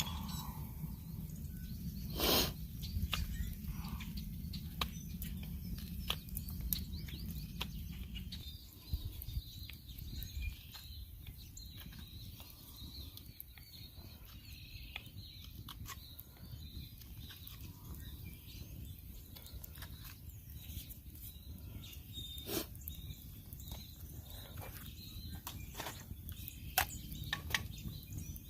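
Outdoor woodland ambience: faint bird chirps over many scattered small clicks and cracks, with one louder crack about two seconds in. A low rumble underneath drops away about eight seconds in.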